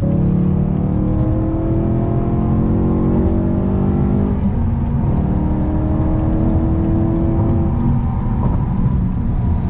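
BMW E92 M3's naturally aspirated S65 4.0-litre V8 with a muffler delete, accelerating: revs climb steadily, break off briefly for a manual upshift about four and a half seconds in, climb again through the next gear, then settle to a steadier lower note near the end. Heard from inside the cabin.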